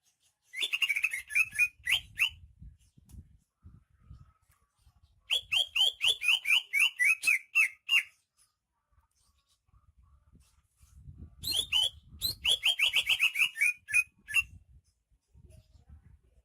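Greater green leafbird (cucak ijo) singing three bursts of quick, repeated, sharp notes, each burst lasting two to three seconds with pauses between.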